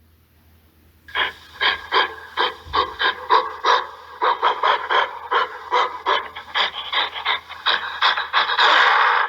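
Gorilla calling in a rapid run of short repeated calls, about four a second, after a second of quiet; near the end they merge into a louder, steadier noisy call.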